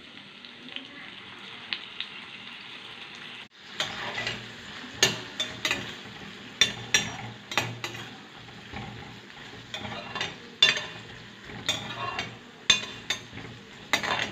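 Diced carrots, potatoes and chorizo sizzling in butter in a glass pan as soy sauce goes in. From about four seconds in, a metal spoon stirs them, with repeated sharp clinks and scrapes against the pan over the steady frying.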